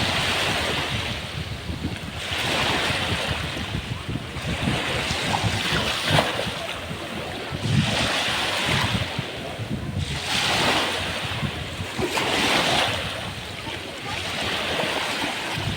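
Black Sea surf breaking and washing up the beach, the rush of each wave swelling and fading about every two to two and a half seconds.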